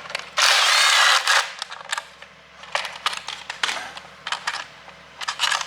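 Hand-tool work on an engine: a loud burst of about a second near the start, likely a power tool or ratchet running, then scattered sharp metallic clicks and clinks of tools and fasteners being handled.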